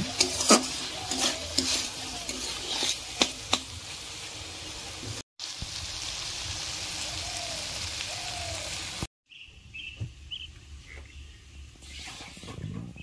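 Chicken curry sizzling as it is stir-fried in a kadai, with the spatula scraping and knocking against the pan in the first few seconds, then steadier sizzling. About nine seconds in the frying sound cuts off, leaving a quieter background with a few high chirps.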